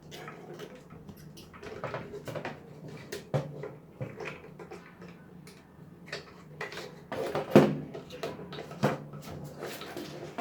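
Irregular clicks and knocks from a Subaru Legacy's in-tank fuel pump assembly being worked loose from its housing by hand, the loudest knock about seven and a half seconds in.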